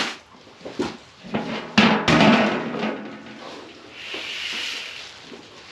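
A few sharp knocks, with a louder clatter about two seconds in, followed by a soft hissing rustle near the end.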